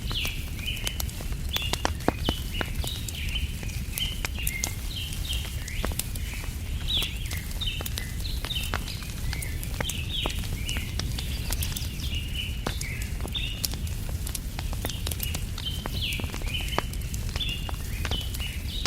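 Wood fire crackling with frequent sharp pops, under steady chirping of small birds and a low, even rumble.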